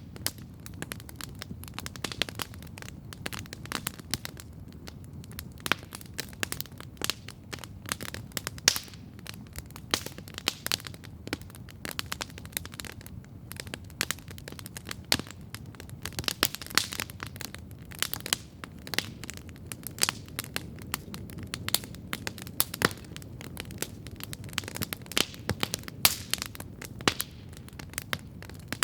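Wood fire burning with a steady, irregular crackle and frequent sharp pops, over a low steady hiss of the flames.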